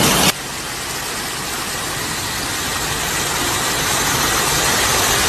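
Loud, steady rushing noise with no distinct tones, cutting in after a brief louder burst and growing slightly louder.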